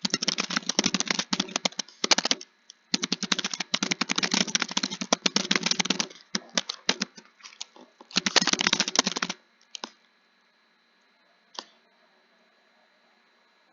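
Computer keyboard typing in fast runs of keystrokes with short pauses between them. The typing stops about nine seconds in, and a single click follows a couple of seconds later.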